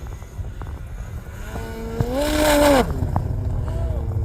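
Snowmobile two-stroke engine revving up about a second and a half in, holding briefly with a burst of hiss, then dropping off sharply and winding down again in pitch near the end.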